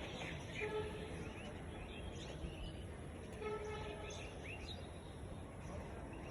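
Several small birds chirping, with many short, quick rising calls, over a steady low background rumble.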